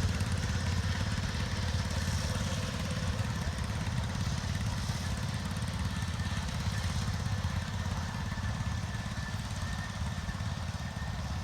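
Several locomotives working a train hard up a steep 4.25% grade, a dense rapid low pulsing with a faint steady high tone over it.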